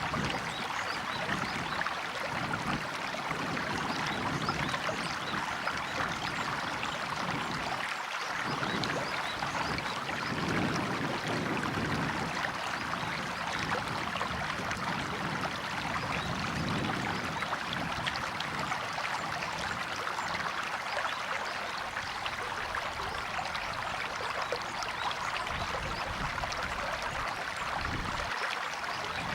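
River water running and babbling in a steady rush, with soft gurgling swells now and then.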